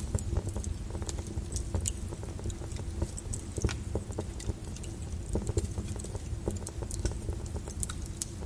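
Wood fire crackling with irregular sharp pops and snaps, over a steady low rumble of rain.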